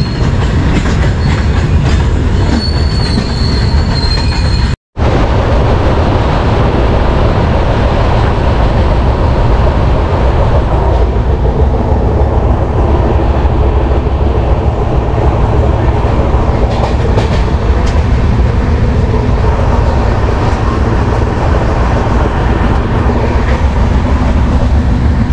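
Express train running on the rails, heard from on board: a loud, steady rumble of wheels on track, with a thin high wheel squeal in the first few seconds. The sound drops out completely for a moment about five seconds in.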